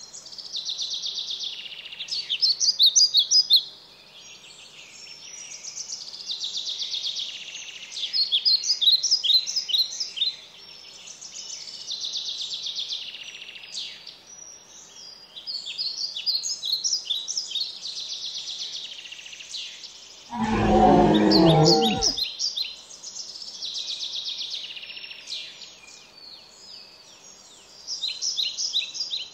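A songbird singing the same song over and over, about every four seconds: a high buzzy stretch followed by a quick run of short notes. About twenty seconds in, a loud, low, wavering call lasting about a second and a half covers the song.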